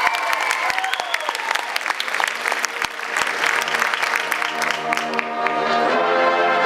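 Stadium crowd clapping, with a few whoops at the start. About six seconds in, the marching band's brass comes in with a sustained chord.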